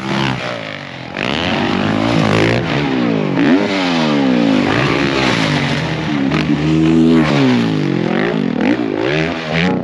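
Several motocross bikes' engines revving up and down, their pitches rising and falling and overlapping one another.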